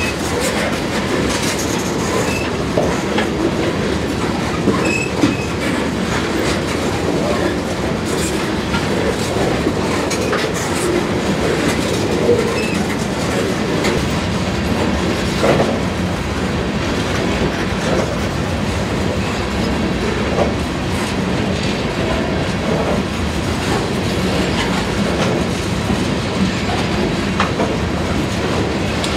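Freight train's open-top hopper cars rolling along the rails: a steady rumble of steel wheels on track with scattered sharp clicks and clanks.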